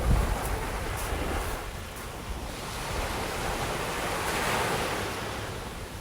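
Sea waves washing onto the shore, with one wave swelling and breaking about four and a half seconds in. A low buffet of wind on the microphone at the start is the loudest moment.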